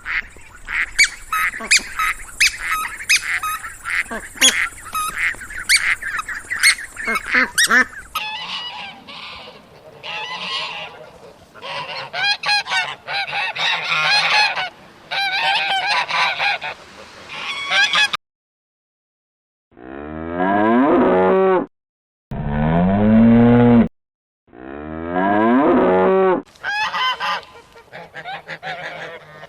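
Geese honking and cackling in a flock, many rapid calls at first and then spaced-out honks. After a short silence, a cow moos three times in long, low calls, and then the honking resumes.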